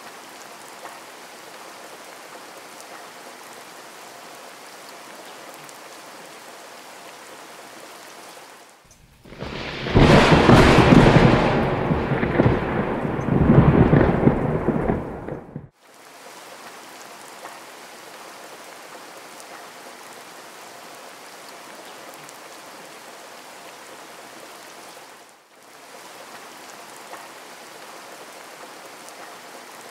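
Heavy rain falling, a steady even hiss. About nine seconds in, a much louder stretch of rumbling storm and rain noise lasts around seven seconds, then the steady rain hiss returns.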